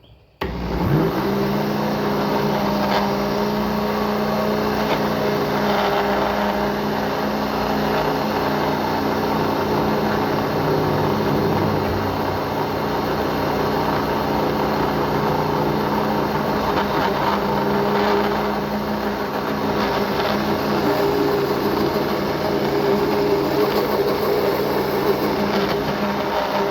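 Electric kitchen blender switched on, its motor spinning up with a rising whine about half a second in, then running steadily as it blends a liquid batter of eggs, sugar, water and powdered milk.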